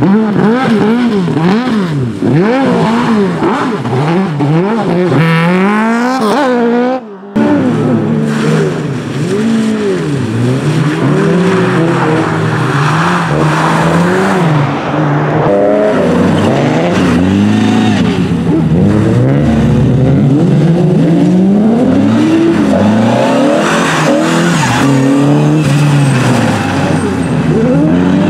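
Engines of cars driven hard on a small circuit, revving up and falling back again and again as they accelerate, change gear and slow for corners. The sound breaks off briefly about seven seconds in, then another car's engine takes over with the same repeated rising and falling.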